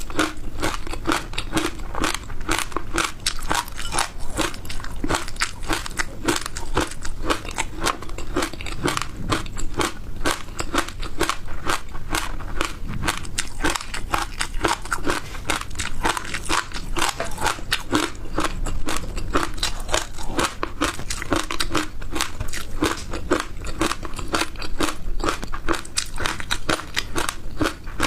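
Close-miked crunching and chewing of frozen passion fruit ice, with sharp crunches coming several times a second throughout.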